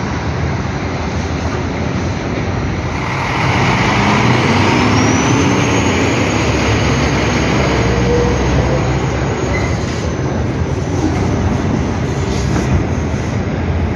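Scania F360HA bi-articulated bus running, its noise swelling about three seconds in with a rising whine as it gathers speed.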